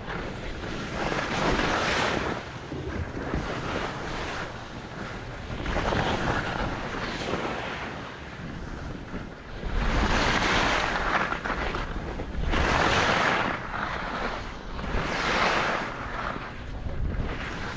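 Skis carving down a groomed run, each turn a swelling hiss of edges scraping the snow, coming every two to three seconds, with wind rushing over the microphone.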